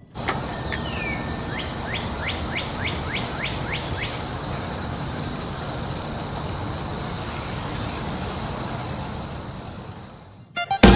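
Ambient soundscape: a steady hiss with a continuous high-pitched whine. Over the first few seconds there is one falling sweep, then a quick run of about nine short rising chirps, roughly three a second. It fades away just before the song's music starts near the end.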